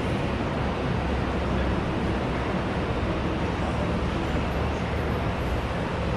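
Steady background din of a busy school canteen, an even wash of noise in which no single voice or clatter stands out.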